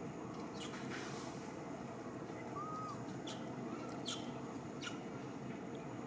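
Birds calling over steady background noise: a few short, sharp, high chirps in the second half, and one brief arched whistle near the middle.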